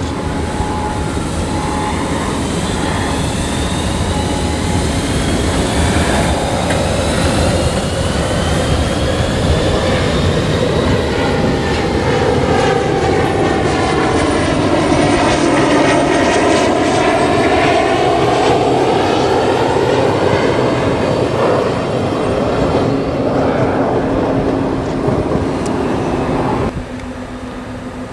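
ÖBB class 1142 electric locomotive and its train rolling past: a steady rumble of wheels on rail that swells to its loudest around the middle of the pass and eases off again. It cuts off abruptly near the end.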